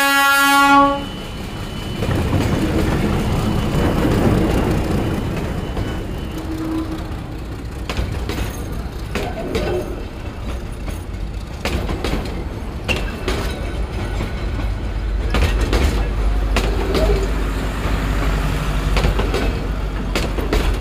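Diesel locomotive horn sounding and cutting off about a second in, then a passenger train's coaches rumbling past at close range, wheels clacking over the rail joints.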